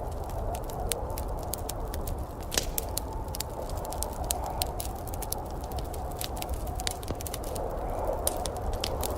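Wood fire crackling, with sharp irregular pops over a steady low rumble and hiss.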